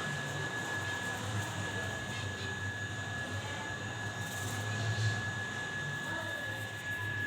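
Steady machine hum with a constant high whine, unchanging throughout.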